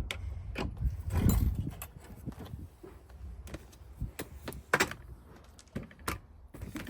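Handling clatter: scattered sharp clicks and knocks, with a heavier low thump about a second in.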